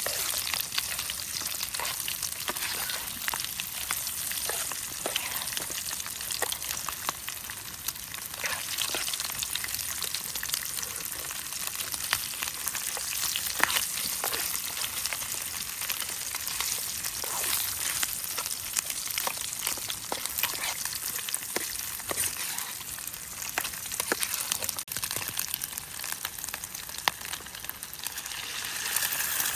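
Food frying in a pan: a steady sizzling hiss with scattered pops and crackles.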